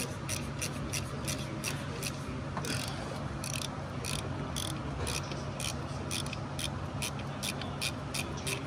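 Hand ratchet wrench being worked back and forth on a fastener, its pawl clicking about three to four times a second over a steady low hum.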